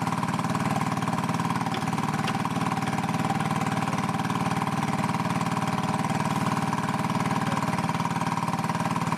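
Small engine of a stucco mixer running steadily at an even speed while the batch mixes.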